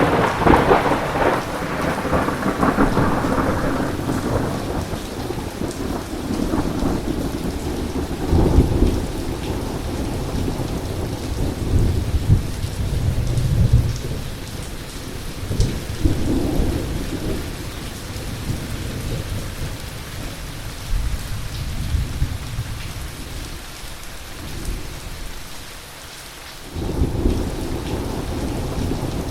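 Heavy thunderstorm: steady rain with long rolling thunder rumbles. A loud peal opens it, more swells come about 8, 13 and 16 seconds in, it eases to a lull, and a fresh rumble breaks in about 27 seconds in.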